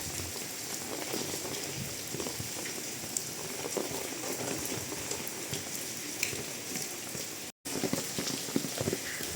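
Steady rain falling, a dense patter of drops. The sound cuts out for a moment about three-quarters of the way through.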